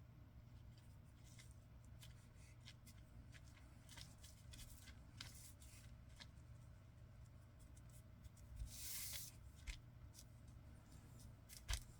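Faint handling of paper and card: scattered light taps and rustles, with a brief rubbing scrape about nine seconds in.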